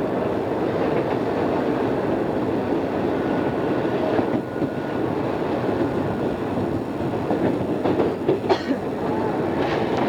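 Odakyu 2600 series electric train running at speed, heard from inside a passenger car: a steady rumble of wheels and running gear. A few sharp clacks come from the wheels about eight seconds in.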